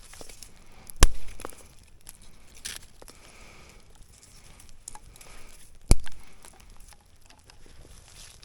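Two sharp knocks about five seconds apart, with light rustling and small clicks between: camp gear being handled.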